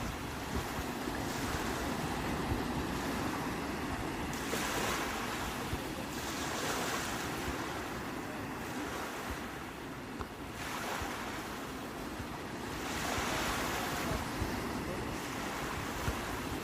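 Sea waves breaking and washing in, the surf swelling and falling back every few seconds.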